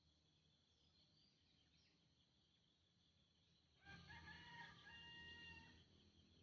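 A green junglefowl crows once, about four seconds in, a call of roughly two seconds with a held second part. Faint insects buzz steadily underneath.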